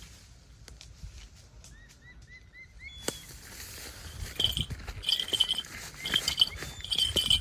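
A small bird chirping: a quick run of five short rising chirps, then from about four seconds in a string of short, high, repeated calls, with scattered clicks and rustles.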